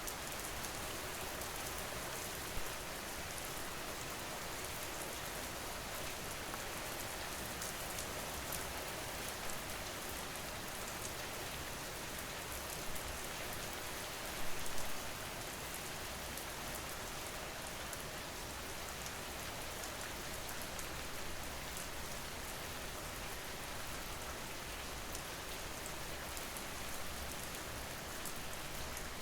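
Steady rain falling, an even hiss of many drops, with a brief louder patch about fifteen seconds in.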